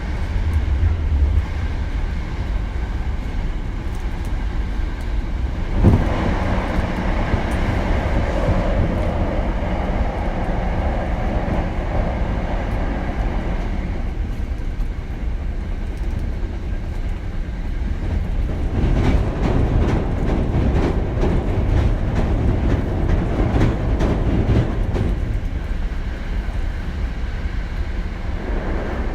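Running noise of a Hankyu 7000 series electric train, heard from inside the car: a steady wheel-on-rail rumble with a sharp thump about six seconds in. A quick run of rail-joint clicks follows between about 18 and 25 seconds.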